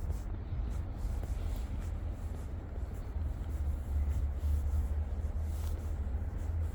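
City street ambience heard on a walk: a steady low rumble, with faint crunching footsteps repeating at a walking pace.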